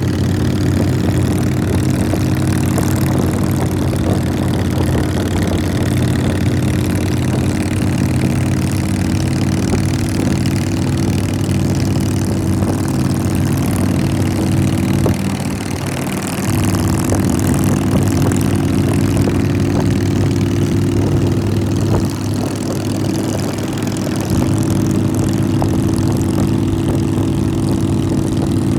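Motorcycle engine running steadily at cruising speed, its note easing off briefly about halfway through and again a few seconds later.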